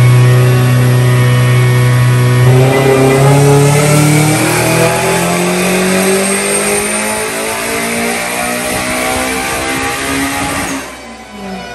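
Turbocharged Honda S2000 four-cylinder engine on a chassis dyno, running at a steady pitch and then, about two and a half seconds in, making a full-throttle dyno pull with the pitch rising steadily for about eight seconds. Near the end it cuts off abruptly and the pitch starts to fall as the pull ends.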